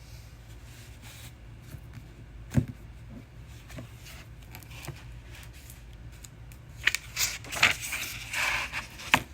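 A paperback picture book being handled and opened: a sharp tap a few seconds in, then a run of taps and paper rustling near the end as the pages are turned.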